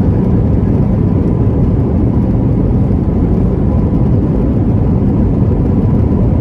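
Steady, loud rumble of an Airbus A321-200's engines and rushing air, heard from inside the passenger cabin during landing, with a faint steady whine above it.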